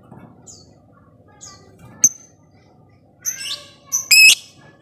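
Lovebird calling: a few short, sharp high chirps, then louder, harsh screeching calls about three and four seconds in, the last one the loudest.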